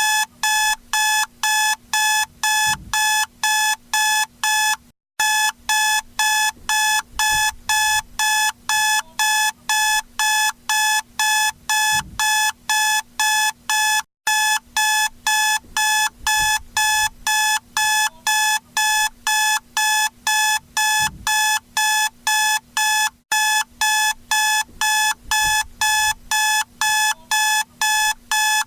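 Electronic alarm clock beeping: a rapid, steady train of short high-pitched beeps, about three a second, broken by a brief gap about every nine seconds. It is the wake-up alarm that signals the end of the timed nap.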